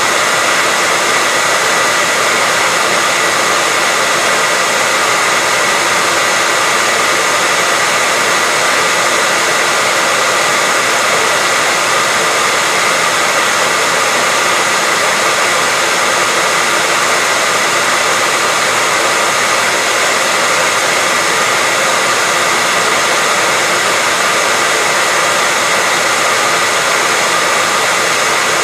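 Hair dryer running steadily, a constant airy rush with a faint steady whine.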